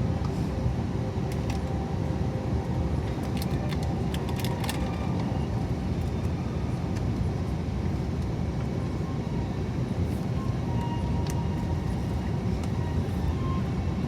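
Steady drone inside the cabin of an Airbus A321neo airliner in flight: engine and airflow noise, constant in level. A few light clicks or rattles come about three to five seconds in.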